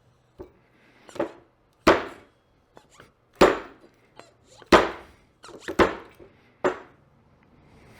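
About seven sharp, irregularly spaced knocks of a makeshift seal driver against a motorcycle fork oil seal, driving the seal down into the fork's outer tube.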